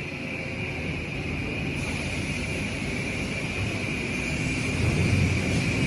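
ABS/HIPS plastic sheet extrusion line running: a steady machine drone with low rumble and a constant high hiss, a little louder near the end.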